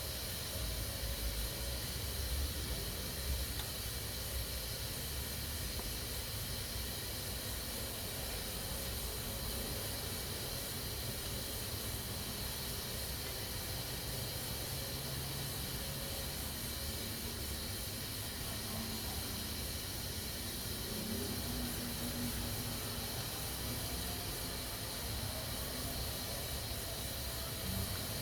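Pressure cooker hissing steadily as steam escapes through its valve under pressure.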